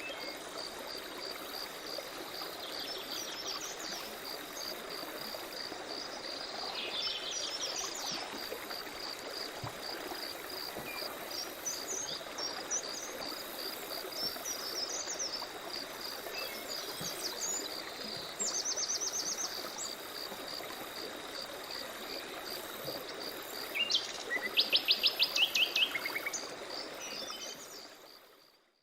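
Forest ambience: a stream running under a steady, pulsing insect trill, with birds calling on and off. About two-thirds through and again near the end a bird gives rapid runs of notes, the later one the loudest sound. The whole fades out at the end.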